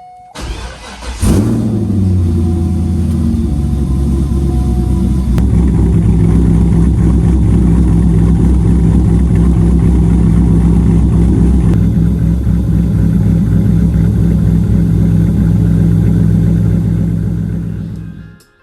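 C5 Corvette's V8 engine cranking and catching about a second in with a short rev flare, then settling into a steady idle that fades out near the end.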